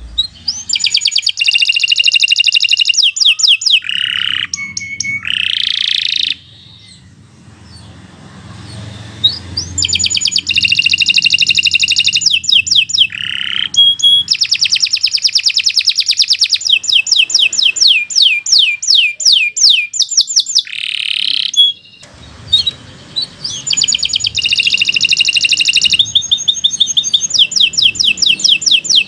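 Domestic canary singing long, continuous song phrases: fast trills of rapidly repeated high notes and rolls. The song breaks off for about three seconds around six seconds in and again briefly near the twenty-two-second mark.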